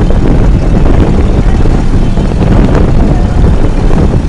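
Motorboat under way, its running engine giving a loud, steady low rumble.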